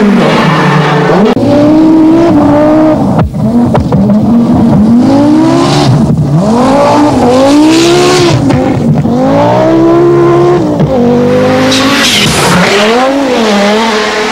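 Group B rally car engine revving hard at speed, its pitch climbing and dropping again and again as it accelerates and lifts off.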